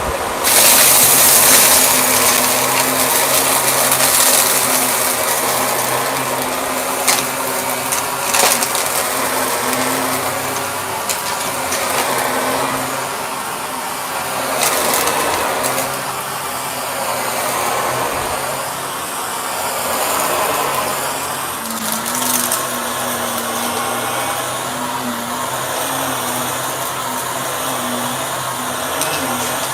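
Shark vacuum cleaner running, its motor hum shifting slightly in pitch, with a louder rush of air in the first couple of seconds and a few sharp clicks.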